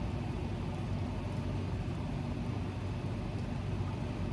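A steady low hum, unchanging, with no distinct event standing out.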